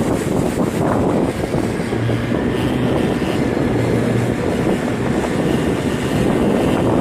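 Suzuki outboard motor running steadily with the boat under way, a low steady hum over a constant dense rush of wind and water noise.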